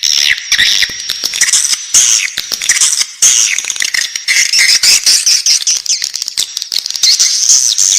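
Swiftlet chicks calling in the nest: a dense, unbroken chorus of rapid, high, raspy chirps overlapping one another.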